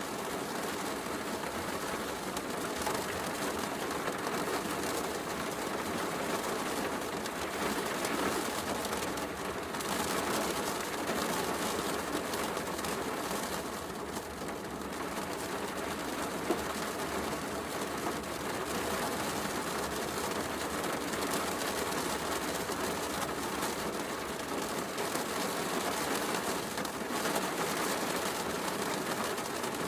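Heavy rain falling steadily, mixed with the soft crackle of a wood fire in a fireplace, with one sharper pop a little past the middle.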